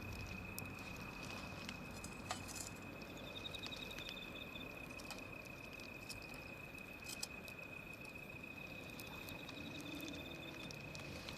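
Wood fire crackling, with scattered sharp pops over a low hiss. A steady high-pitched tone runs underneath.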